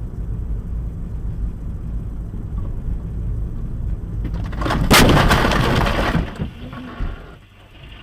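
Steady low road and engine rumble from inside a moving car, then a loud crash of a vehicle collision about five seconds in, crunching and breaking for a second or so before it dies away.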